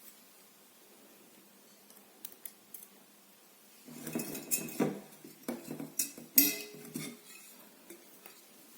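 A teapot being handled, its parts clinking and knocking together in a quick cluster that starts about halfway through and lasts about three seconds, with the loudest knock near the end.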